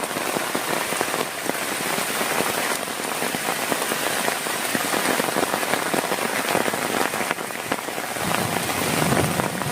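Heavy rain falling steadily, with countless individual drops ticking on a nearby surface. A low rumble builds near the end.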